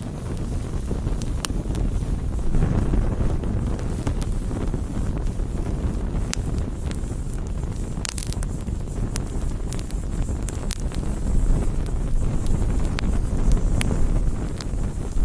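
Wood campfire burning, with scattered sharp crackles and pops over a steady low rumble of wind on the microphone.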